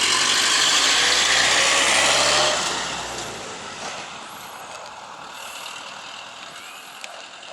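Airliner engine noise, loud and steady for about two and a half seconds, then fading away gradually.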